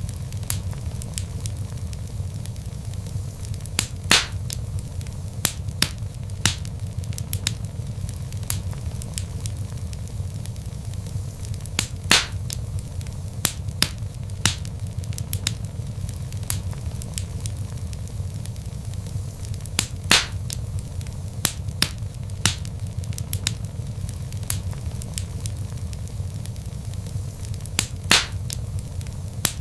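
Wood fire burning in a fireplace: a steady low rumble of flames with frequent crackles and sharp pops from the burning logs, a few louder pops standing out.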